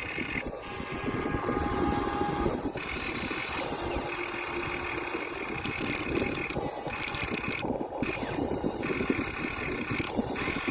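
Electric motors and gearboxes of Huina remote-control excavators whining steadily while the models dig, with gritty crunching and scraping of sand and stones. The whine cuts out and returns abruptly several times.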